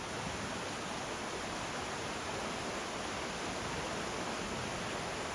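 Steady, unbroken rush of a waterfall heard from its base.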